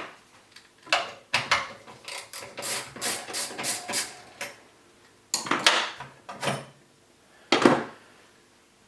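Irregular knocks, clicks and rattles of hard objects being handled, a dozen or so, with a quick cluster in the middle and the loudest knock near the end.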